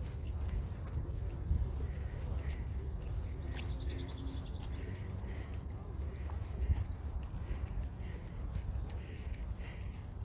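Footsteps of a person walking at a steady pace on a trail, with light high clicking or jingling in time with the stride and a low rumble of wind or phone handling on the microphone.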